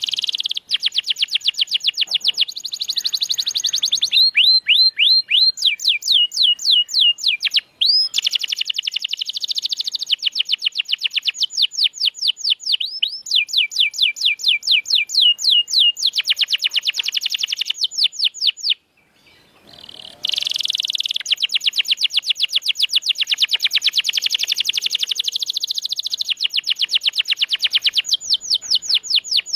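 Domestic canary in full song: long runs of fast, evenly repeated sweeping notes, trill after trill. There is a short break about eight seconds in and a pause of about a second near nineteen seconds before the trills resume.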